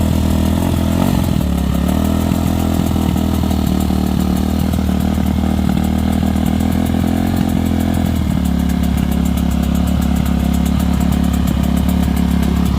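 Dirt bike engine idling steadily close by, its note shifting slightly about eight seconds in.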